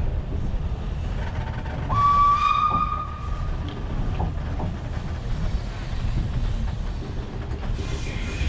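Narrow-gauge steam locomotive whistle blowing once for about a second, about two seconds in, over a steady low rumble.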